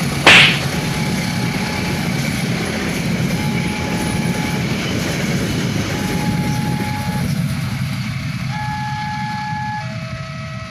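Train passing with a steady low rumble, with a short loud blast about a third of a second in. Faint long held notes, like a flute melody, come in and grow clearer as the rumble fades near the end.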